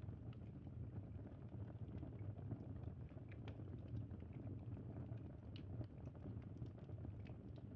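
Campfire crackling: a steady low rumble of the fire with small irregular pops and snaps scattered throughout.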